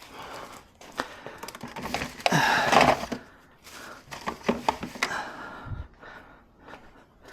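Small items and parts being handled inside a car's interior: a few sharp clicks and knocks, with a loud rustle about two to three seconds in.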